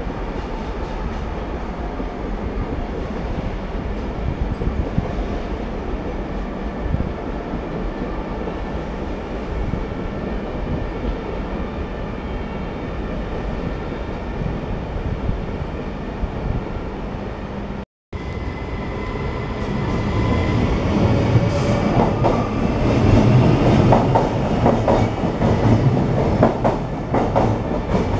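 Locomotive-hauled passenger coaches rolling slowly through the station with a steady rumble. After a break about 18 s in, an SNCB AM08 Desiro electric multiple unit passes closer and louder, its wheels clattering over rail joints and points.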